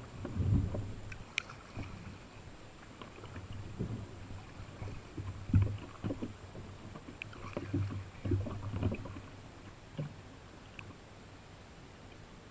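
Canoe being paddled, with irregular low thumps and knocks of the paddle and hull; the loudest comes about half a second in and another near the middle.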